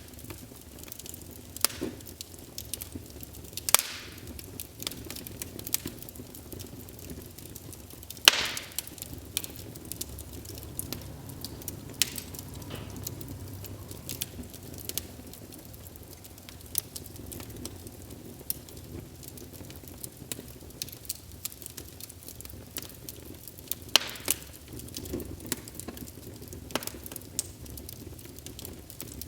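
Wood fire burning in a fireplace: a low steady rumble of flames with irregular crackles and sharp pops, the loudest pops about 8 and 24 seconds in.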